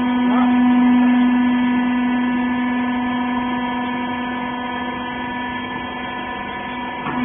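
Industrial rag baler's hydraulic power unit running with a steady hum: one strong low tone with several fainter higher tones above it.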